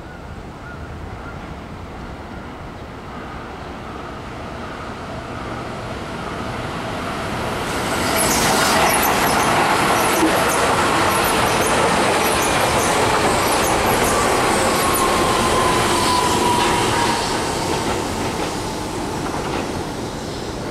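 Keihan electric commuter train passing close by. Its running noise builds over the first several seconds into a loud stretch of wheel-on-rail clatter and rattling that lasts about nine seconds. A falling whine comes near the end of the pass, and then the noise eases off.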